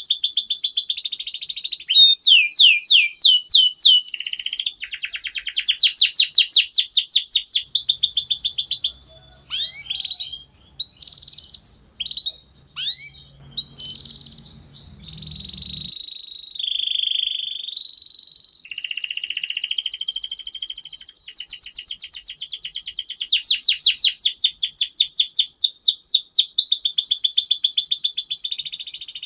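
Domestic canary singing in fast rolls of rapidly repeated high notes. About a third of the way in, the song breaks into scattered single chirps and a few held whistles, then returns to the rapid trills.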